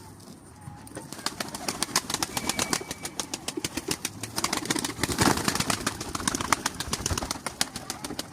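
Pigeon wings flapping: a fast run of wing claps and flutters starting about a second in and going on until near the end, loudest in the middle.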